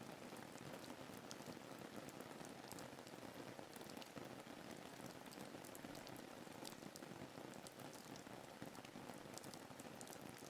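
Soft, steady rain ambience: an even hiss of falling rain with many small scattered drop ticks.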